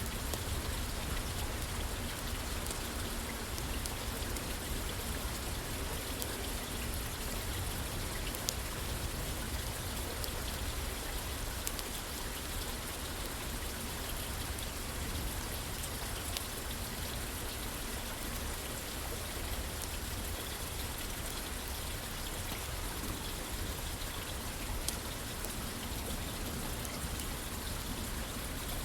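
Steady rain falling on a roof, with a few faint sharp ticks now and then.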